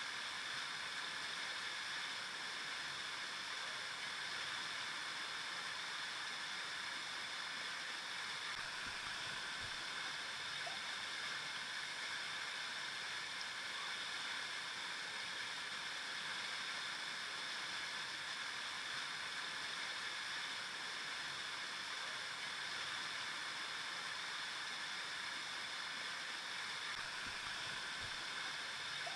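River water flowing steadily over rocks, a continuous even rush with most of its energy in the upper middle range.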